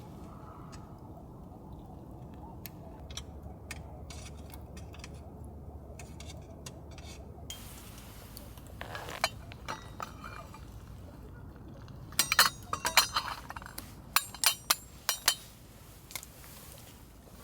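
Camp cookware and utensils clinking over a low steady background: a couple of clinks about nine to ten seconds in, then a quick run of clinks and taps from about twelve to fifteen seconds in.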